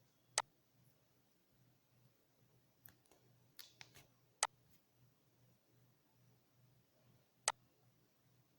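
Computer mouse clicks: about six short, sharp, isolated clicks spread irregularly, a few of them close together around the middle, over a faint low hum.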